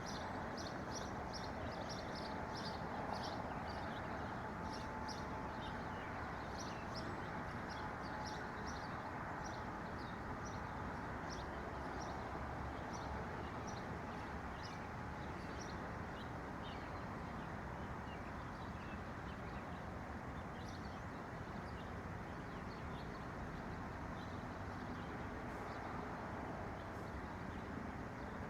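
Small birds chirping: many short, high chirps in quick succession that thin out after about halfway, over a steady low background rush.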